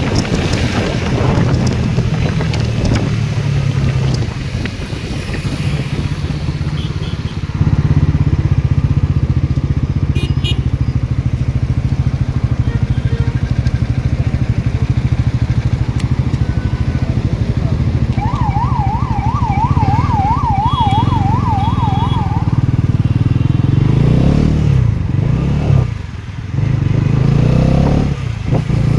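Motorcycle engine running steadily while riding, stepping louder about a quarter of the way in. Past the middle, a warbling electronic siren-like tone rises and falls rapidly for about four seconds.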